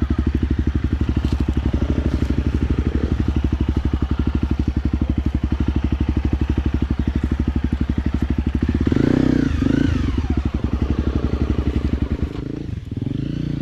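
Small engine running steadily at low speed with an even, rapid putter. About nine seconds in it gets louder and rougher, with a brief rising and falling whine, then settles again.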